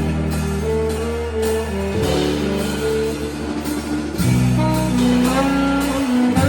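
A small band playing instrumental music: sustained low bass notes under a melody line, with cymbal strikes keeping time.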